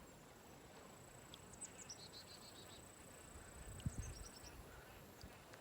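Faint outdoor ambience: a steady, high-pitched insect trill that stops about four and a half seconds in, with two short runs of quick, falling bird-like chirps over it.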